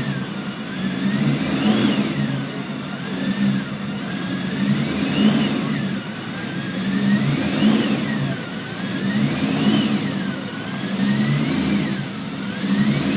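Classic sports car engine being revved over and over, its pitch climbing and dropping back about every two seconds over a steady low rumble.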